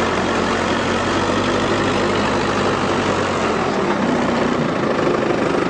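A vehicle engine idling steadily, its low hum shifting slightly about four seconds in.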